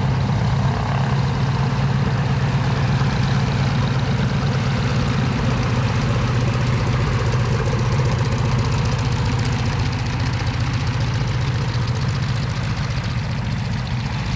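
The radial engine of a Cessna 195 running steadily, with a deep, even hum that eases a little toward the end.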